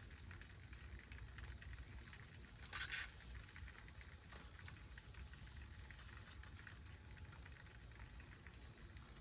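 Steady light pattering of rain, with a low rumble underneath and a brief louder rush of noise about three seconds in.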